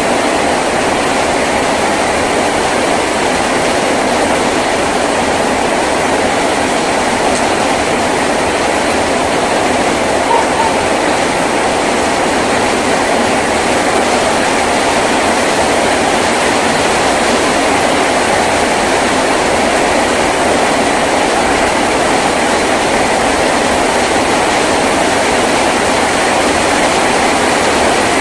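Heavy rain drumming steadily on a tin roof, a dense, even wash of sound.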